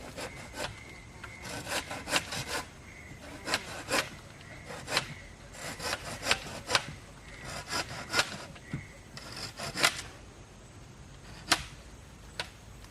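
Hand saw cutting wood in runs of quick strokes with short pauses between them, then two single knocks near the end.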